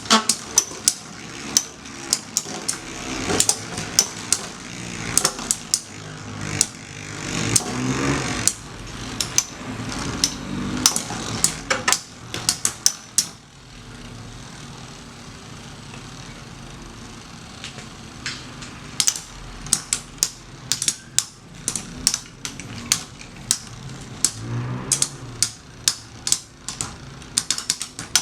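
Three metal Beyblade spinning tops clashing: rapid, irregular metallic clacks over a spinning whir. About halfway through, the hits stop for several seconds and only the steady whir of the spinning tops remains, then the clashing resumes.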